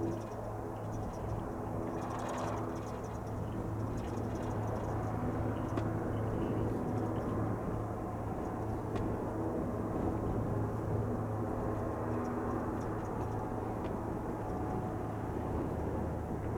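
Engine of a Cirrus SR22 light single-engine propeller plane at low power as it comes in to land, a steady drone with a short swell about two seconds in.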